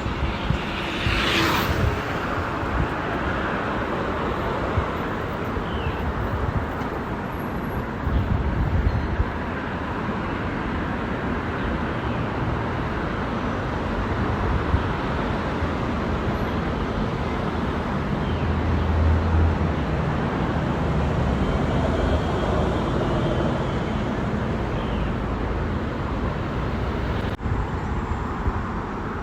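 Steady road and traffic noise heard from a bicycle moving along a village road: a constant rumble and hiss, with motor vehicles passing, and a short high hiss about a second in.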